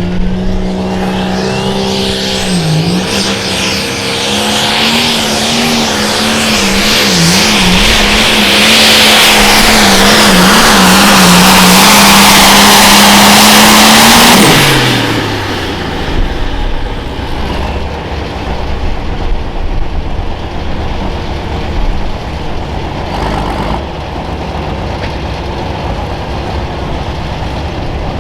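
Turbocharged diesel pro stock pulling tractor at full throttle under load, its engine pitch holding high with a few brief wavers and a loud, rising turbo whistle. About halfway in the throttle is cut and the engine pitch falls away to a lower rumble.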